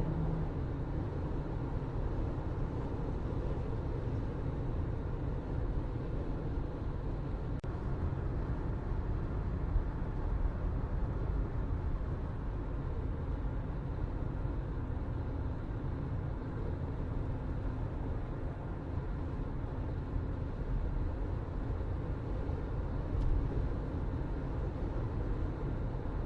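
Steady low rumble and hiss of ambient noise, even throughout, with a faint click about a third of the way in and another near the end.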